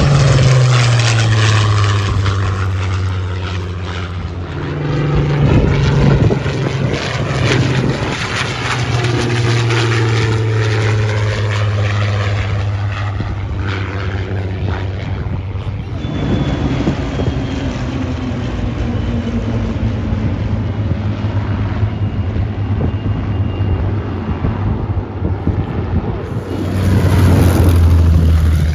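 A mass formation of piston-engined Spitfires and Hurricanes flying past, their propeller engines droning loudly. The engine pitch falls as successive aircraft pass, swelling about six seconds in and again near the end.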